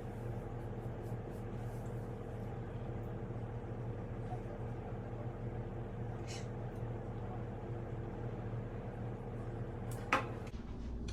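A steady household appliance hum with a sharp click about ten seconds in, and the hum cuts off just after it.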